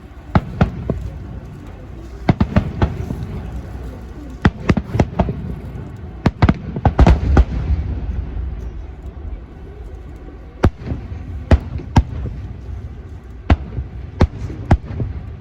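Fireworks going off in an irregular series of sharp bangs over a low rumble, thickest about halfway through.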